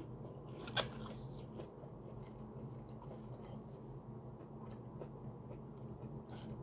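A person chewing a fried jalapeño-and-cheese bite with the mouth closed, with a few faint crunches and clicks, one sharper about a second in. A steady low hum runs underneath.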